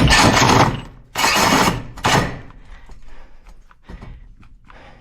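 Power drill boring through the wall for the vent pipe in three short, loud bursts, stopping after each; it keeps stalling as it cuts, which the workers find aggravating. After that only quieter scraping follows.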